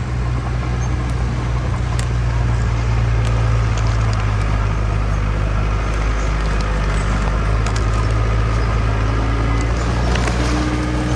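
Heavy diesel engine of earthmoving machinery running steadily under load, a deep even drone with scattered faint clicks and knocks over it.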